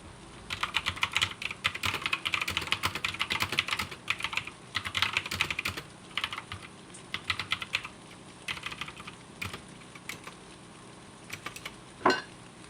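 Typing on a computer keyboard in quick bursts of keystrokes with short pauses between them, thinning out near the end. One louder knock comes just before the end.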